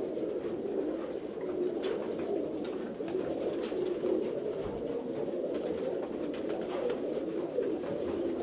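Tumbler pigeons cooing, many low overlapping calls running on steadily, with a few scattered faint clicks.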